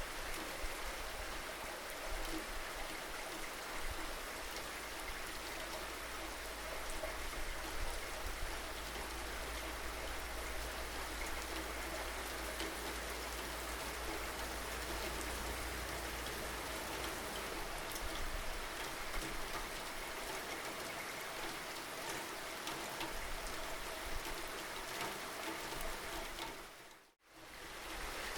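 Steady rain falling, with individual drops ticking through the hiss and a low rumble underneath that drops away about halfway through. Near the end the sound dips briefly to silence and comes straight back.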